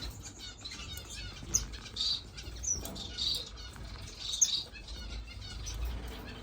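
Small finches chirping: short high chirps about once a second, with a few sharper, higher peeps in between.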